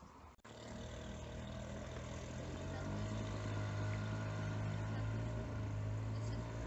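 Motorboat engine running with a steady hum, growing gradually louder over a few seconds.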